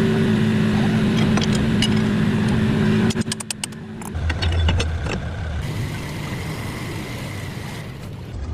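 Workshop machinery noise: a steady mechanical hum that cuts off about three seconds in, then a quick run of metallic clicks and knocks, then the low, steady rumble of an engine running.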